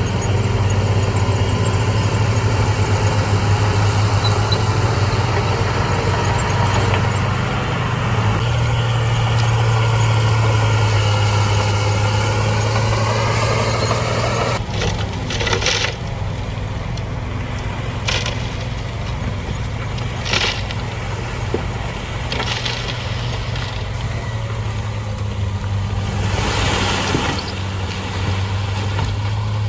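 Heavy diesel engine of earthmoving machinery running under load, its pitch rising and wavering through the first half. It then settles lower, with several short hisses.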